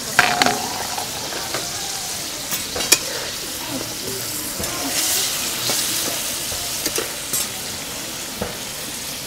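Duck pieces sizzling as they fry in oil in a metal karahi, stirred and turned with a steel spatula that scrapes and clinks against the pan now and then.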